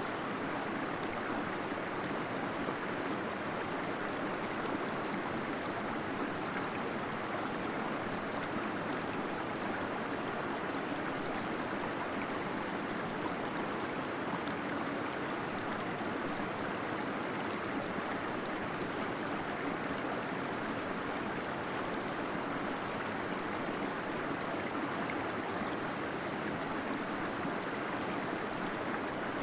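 Small waterfall flowing steadily, a constant even rush of falling water with some gurgling.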